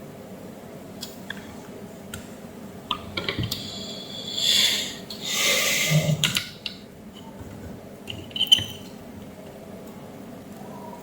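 Small clicks and clinks of hard objects being handled, with a few louder rustling, hissing stretches in the middle, over a steady low hum.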